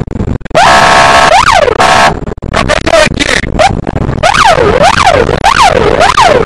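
Police car's electronic siren. It sounds short steady blasts, then switches to a fast rising-and-falling yelp, about two sweeps a second.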